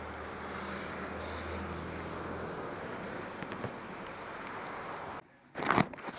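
Motorcycle engine idling faintly under a steady hiss. The sound cuts out about five seconds in, then a short loud burst follows.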